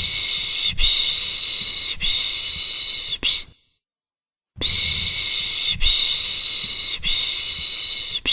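A person shushing 'pışş, pışş' to soothe a baby, a long hissing shush repeated about once every 1.2 seconds. Three or four shushes come in a run, then a pause of about a second, then the run starts again.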